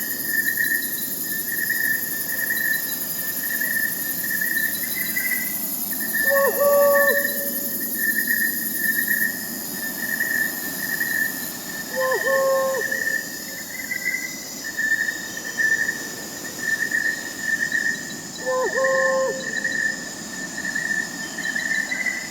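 Crickets chirping steadily in a fast pulsing trill, with an owl hooting about every six seconds, three times.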